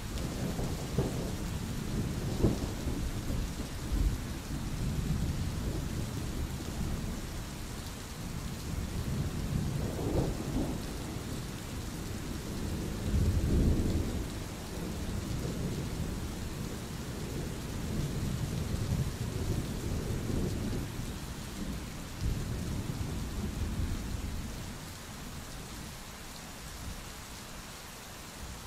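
Steady rain falling with thunder rumbling low underneath, swelling loudest about halfway through and easing off near the end.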